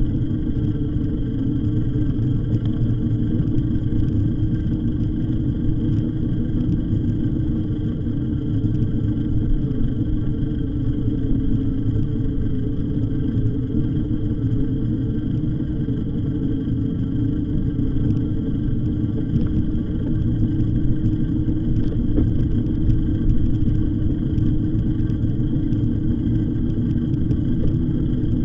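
Steady riding noise from an e-bike on the move: a continuous low rumble with a steady hum running through it and no sudden events.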